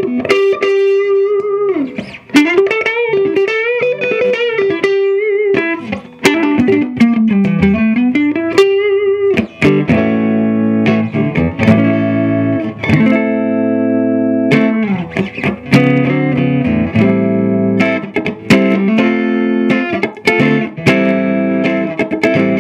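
Electric guitar played through the Earthquake Engineering Atlas15, a 15-watt cathode-biased EL84 valve amplifier. It plays a single-note lead line with string bends up and down, then switches to strummed chords in a steady rhythm from about ten seconds in.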